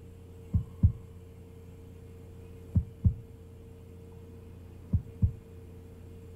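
Heartbeat sound effect: three slow double thumps, lub-dub, about two seconds apart, over a steady low hum.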